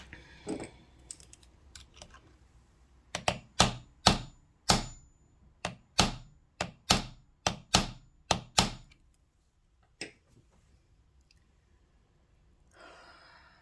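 About a dozen sharp taps and clicks of hard objects knocking together in an uneven run, then one more a second later, followed by a soft rustle near the end.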